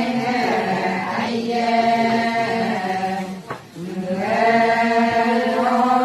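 Adi ponung chant: a voice chanting long, drawn-out held notes, with a short break for breath about three and a half seconds in.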